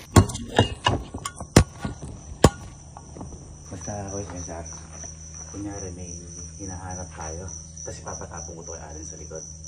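Crickets chirping in a steady, high, pulsing trill. A few sharp knocks come in the first two and a half seconds as the phone is handled and set in place.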